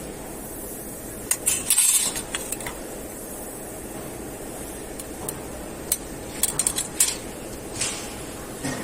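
Small metal parts clinking and tapping against each other and a hard surface in scattered clusters, over a steady background hum.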